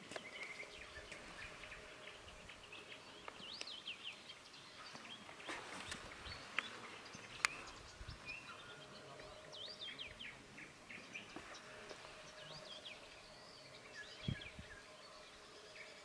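Faint songbirds singing and calling, short rising and falling whistles and chirps scattered throughout. A few sharp clicks stand out above them.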